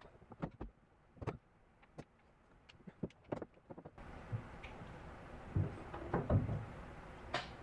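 Scattered clicks and knocks of sheet metal and hand tools being handled during a patch-panel fit-up. A steady background hiss comes in about halfway through, and a cluster of heavier knocks follows, ending in a sharp click.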